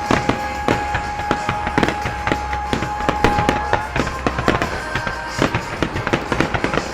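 Fireworks bursting and crackling in rapid, dense succession over loud music played along with the show. A steady tone is held for about the first four seconds.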